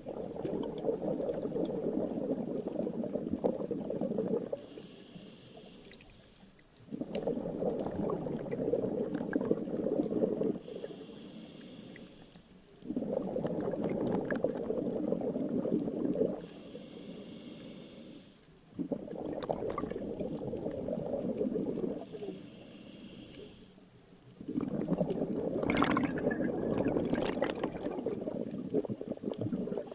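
A scuba diver breathing through a regulator underwater: a short hiss of inhalation through the demand valve, then a longer bubbling rumble of exhaled air, repeated about every six seconds, five exhalations in all.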